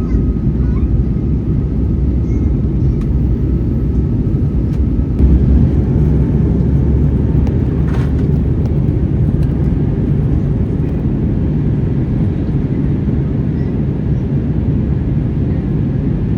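Steady, loud roar of an Airbus A321neo's engines and airflow heard inside the passenger cabin in flight, with a brief click about halfway through.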